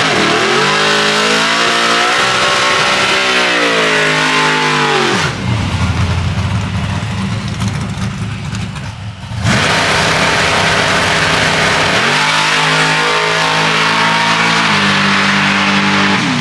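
High-performance car engines at full throttle on a drag-strip run, rising in pitch and dropping back at each upshift. About five seconds in there is a lower, rougher stretch of about four seconds, before the rising, stepping engine note returns.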